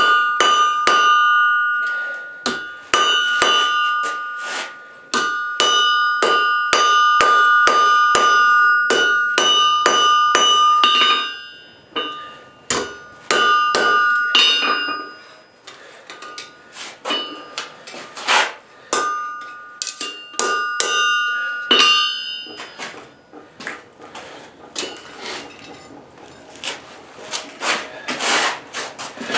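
Hammer blows on steel at the anvil, about two a second, each followed by a bright ring. The blows break off briefly a few times, then turn to lighter, more scattered taps in the last few seconds.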